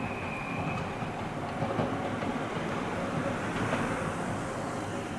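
Nose Electric Railway 1700 series electric train running at the station, its wheels clacking over the rail joints, with a high steady squeal that dies away about a second in.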